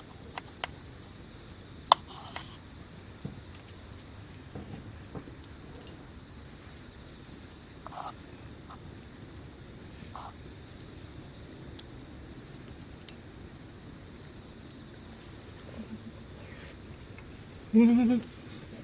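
Steady chorus of insects chirping, with a single sharp click about two seconds in and a few faint small knocks of handling.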